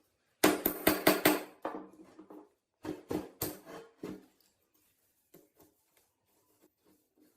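Sharp metal knocks with a short ring, five in quick succession in the first second and a half, then a few more about three seconds in, fading to faint clicks: metal parts of an old hydraulic floor jack being knocked during its restoration.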